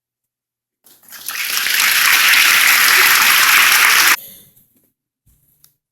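Audience applauding, swelling up about a second in and cut off abruptly about four seconds in.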